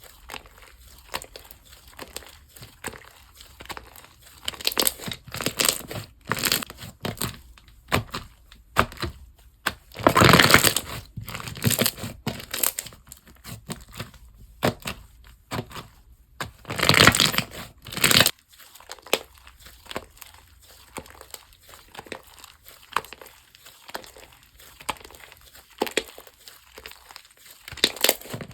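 Slime being squeezed, stretched and pressed by hand, giving a dense run of crackling and crinkling. There are louder bursts about ten and seventeen seconds in.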